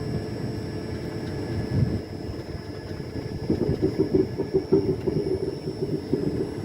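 Passenger train running on the track, a steady rumble of wheels and coach, with a quicker run of louder clatters from about halfway through.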